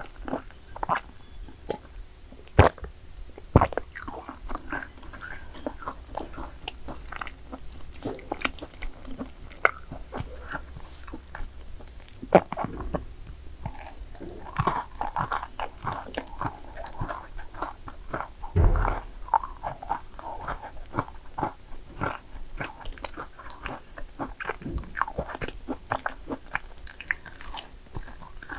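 Yakgwa cookies being bitten and chewed: a steady run of small crunches and clicks with a few sharper bites, and one dull thump about two-thirds of the way through.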